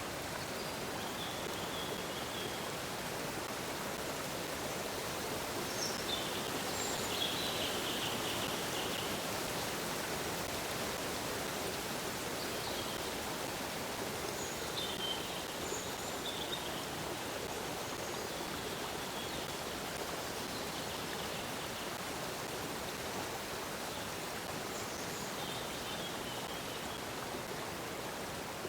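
Stream water flowing steadily, with short bird chirps now and then.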